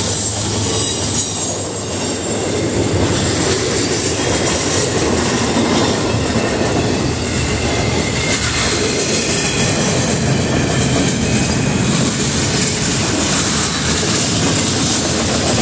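Double-stack intermodal freight cars rolling past, their steel wheels running steadily and loudly on the rails.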